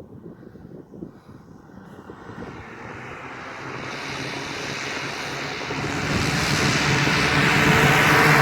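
Radio-controlled model of a Dornier Do X flying boat, its engines and propellers droning and growing steadily louder.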